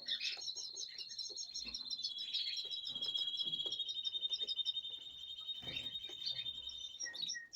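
Songbird nestlings begging in the nest: a long run of rapid, high chirps for about five seconds, with a few soft knocks near the end.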